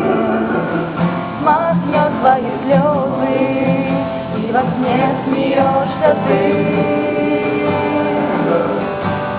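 Voices singing a song to a strummed acoustic guitar, continuing without a break.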